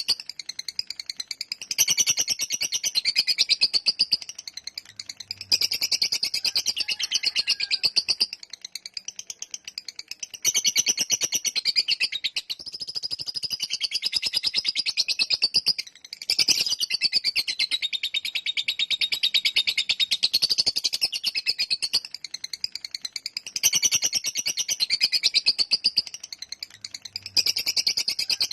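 Lovebird singing a long 'ngekek' chatter: runs of rapid, high-pitched chattering trills lasting several seconds each, with short breaks between them.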